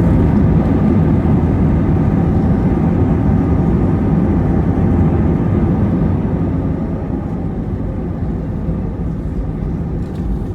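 Airbus A320neo jet noise: a loud, steady low rumble with an engine hum, easing off gradually over the second half.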